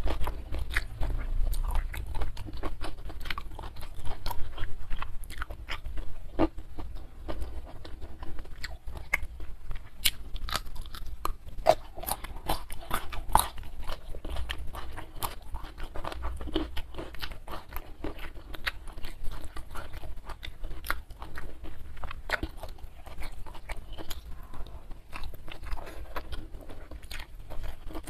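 Close-miked chewing and crunching of a mouthful of stir-fried prawns and rice eaten by hand: many short crunches and mouth clicks in quick succession.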